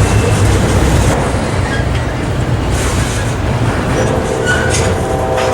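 Train rolling past at close range: a steady, loud rumble and rattle of wheels on the rails. A steady pitched tone joins in about four seconds in.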